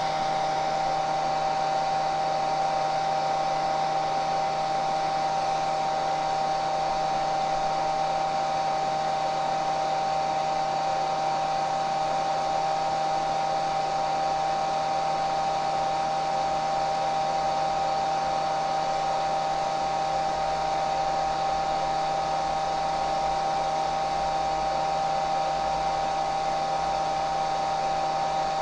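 Hair dryer running steadily: a constant rush of blown air with a steady motor whine, unchanging in pitch and level.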